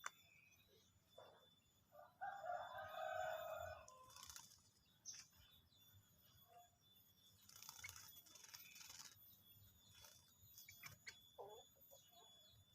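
A rooster crows once, about two seconds in, in a call lasting under two seconds. Brief bursts of high hissy noise follow, shortly after and again around eight seconds in, over a quiet background.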